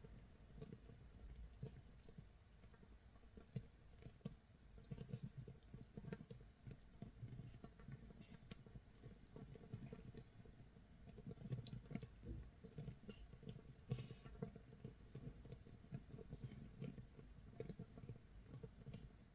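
Makgeolli starter mash (mitsul) fermenting in an earthenware crock, 24 hours in: a faint, dense, irregular crackle of tiny bursting bubbles, like rain pattering or a rice crust crackling.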